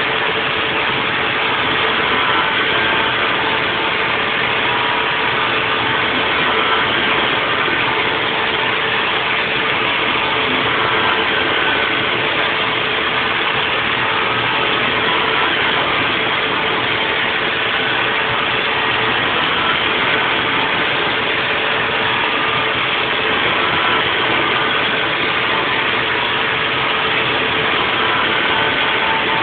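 Haas VF4 CNC vertical mill running a 3D machining cut on a nest block: a steady mechanical rush with a constant hum-like tone, unchanging throughout.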